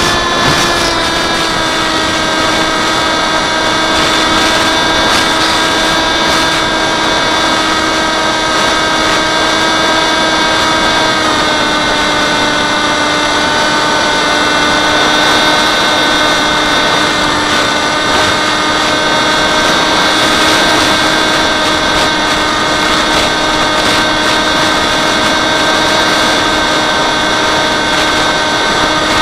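Small multirotor drone's electric motors and propellers whining steadily in strong wind, a stack of tones over a rushing haze. The pitch dips slightly about eleven seconds in as the motors adjust.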